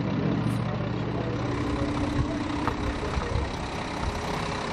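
Heavy diesel rally truck engines running, a steady low rumble that eases a little after the first second or so.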